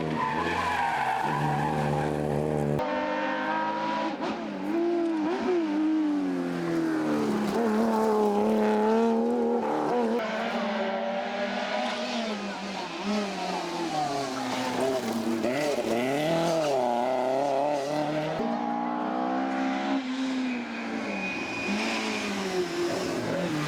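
Rally car engines revving hard, pitch climbing and dropping repeatedly through gear changes and lifts for corners. There is an abrupt change about three seconds in, and again near the end, as one car gives way to another.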